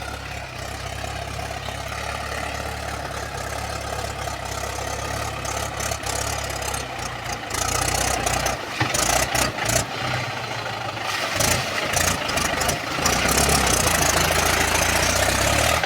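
Mahindra 275 DI tractor's diesel engine running, steady at first. From about eight seconds in it turns uneven with a series of sharp knocks, then settles back to a steady run for the last few seconds.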